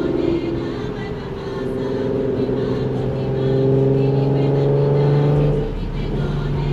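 Infiniti Q50's V6 with an aftermarket exhaust pulling under acceleration, its note climbing steadily. It drops sharply about five and a half seconds in at the upshift, then runs on at a steady lower pitch.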